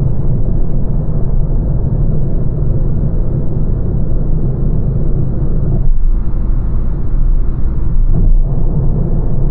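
Steady low rumble of a small hatchback being driven: road and tyre noise, with no engine note standing out.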